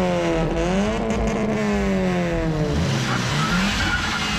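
Volkswagen Golf GTI Mk5's turbocharged 2.0 TFSI four-cylinder engine being revved, its note climbing and sinking back slowly a couple of times.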